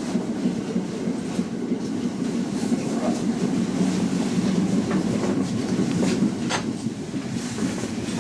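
Local train running along the line, heard from on board: a steady rumble with a few sharp clicks, the loudest about six and a half seconds in.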